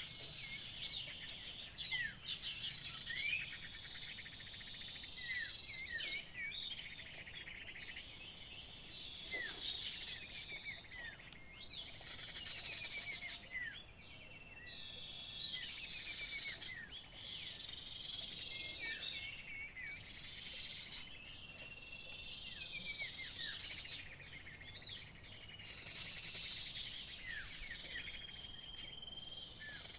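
Small songbirds chirping and calling in quick bouts of short sweeping notes, a fresh bout every couple of seconds.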